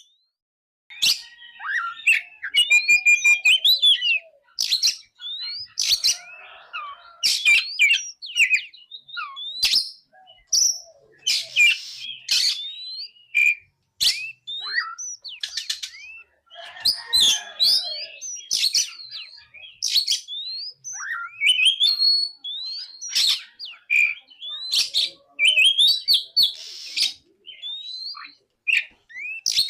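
Oriental magpie-robin (kacer) singing a loud, varied song of quick rising and falling whistles, sharp chips and rapid trills, in phrases broken by short pauses.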